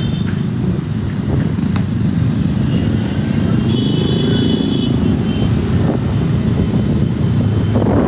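Motorcycle engines running with road noise as the group rides. A brief high-pitched tone sounds about four seconds in.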